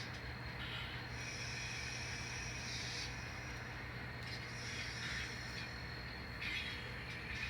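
N scale model locomotive and cars backing up to couple, heard faintly as brief high-pitched squeals and light clicks over a steady low hum.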